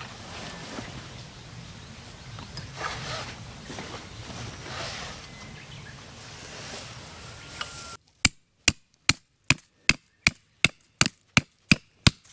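Faint rustling and handling sounds, then from about eight seconds in a run of sharp, evenly spaced strikes, about two and a half a second: wood being chopped, as for stove firewood.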